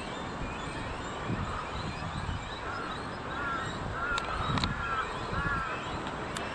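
A crow cawing several times in quick succession over steady background noise, with a few sharp clicks in the middle.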